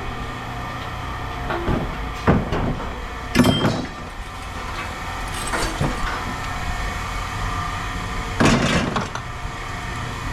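Scrap metal clanking as pieces are handled and dropped during sorting: about five sharp metallic knocks, one of them ringing, over a steady low hum.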